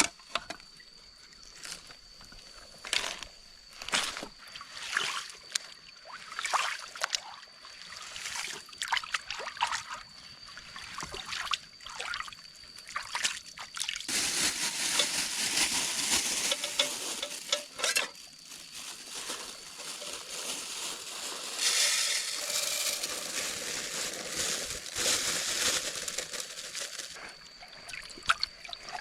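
Water poured and sloshed in a pot, as when rinsing rice for cooking, in two longer pours in the second half; scattered knocks of handling come before. A thin steady high insect tone runs underneath.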